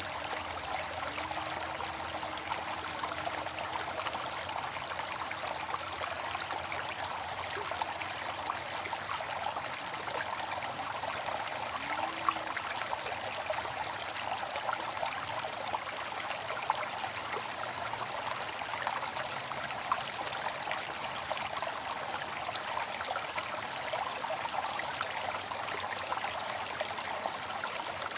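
Water fountain splashing and trickling steadily, with a few brief louder droplet splashes.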